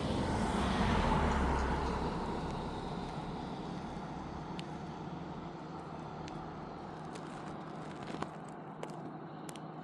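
A car passing on the road: its tyre and engine noise swells in the first second or two, then slowly fades away.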